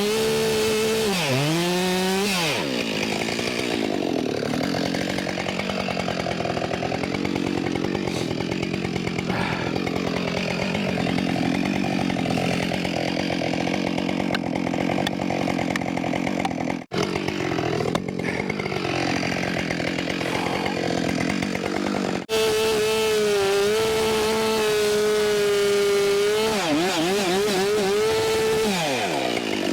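Husqvarna 572XP chainsaw at full throttle, then bogging down in a long cut through the trunk, most likely the bore cut behind the hinge. The sound briefly drops out twice. Later the saw revs freely again, the throttle is blipped, and it falls back toward idle near the end.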